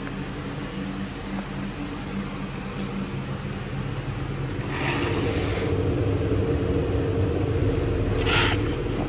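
2012 Lincoln MKZ's 3.5-litre V6 engine running steadily. It gets louder about five seconds in, with two brief bursts of hiss, one about five seconds in and one near the end.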